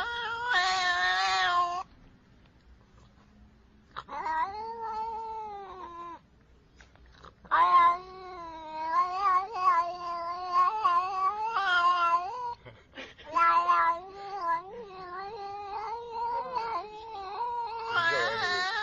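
A domestic cat yowling in long, drawn-out wails that waver in pitch, several in a row with short pauses between them.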